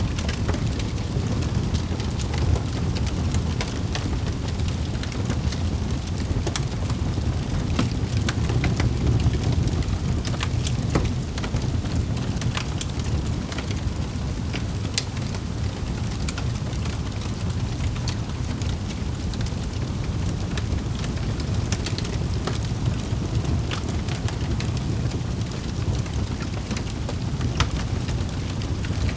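Wood fire crackling in a fireplace: a steady low rumble of burning with scattered sharp pops and snaps at irregular moments.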